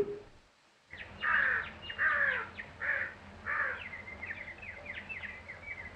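Birds calling: about four harsh crow-like caws, then a quick run of short high chirps.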